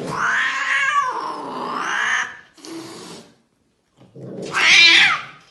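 A cat yowling: long, wavering cries for the first couple of seconds, then after a short break a louder yowl that slides down in pitch near the end.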